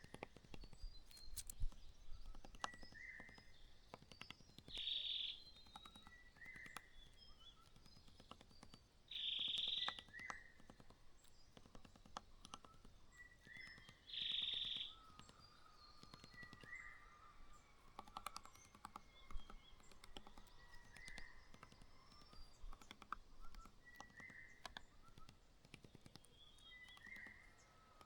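Faint outdoor ambience of small birds chirping, with a short harsh call repeating about every five seconds and scattered light clicks.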